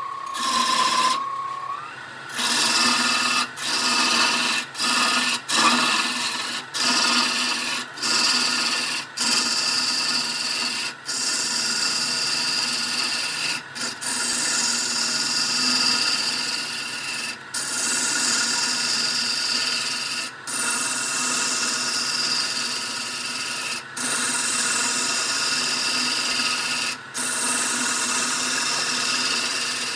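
Wood lathe running with a turning tool cutting and scraping the spinning wood, broken by short gaps every few seconds.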